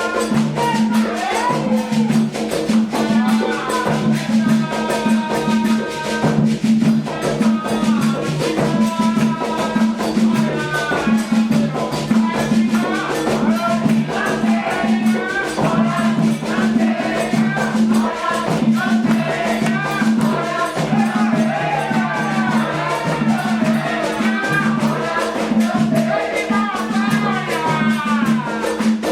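Candomblé ritual music: drums and shaken rattles keep a fast, steady beat under voices singing a chant.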